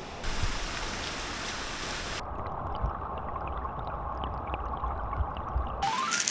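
Mountain stream water rushing steadily, sounding duller for a few seconds in the middle. Near the end a short run of rising notes comes in.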